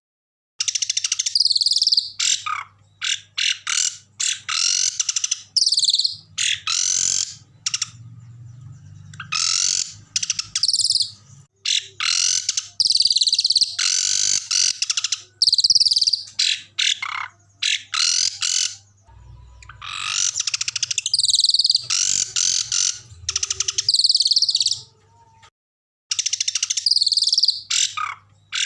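Small songbirds singing rapid, harsh, high-pitched phrases in bursts of one to a few seconds separated by short pauses, the loud 'tembakan' rattles and trills of a masteran bird-song recording.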